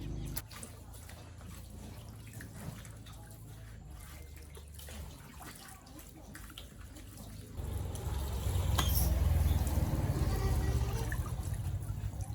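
Water running and splashing, much louder from about eight seconds in.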